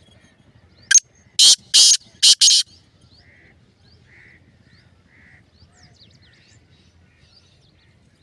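Black francolin calling: one loud phrase of five harsh notes in under two seconds, starting about a second in, with faint short chirps after it.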